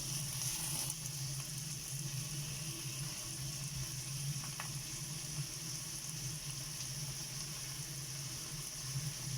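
Tomatoes sizzling in hot oil in a pan over a medium flame, with the steady hum of a kitchen exhaust fan underneath.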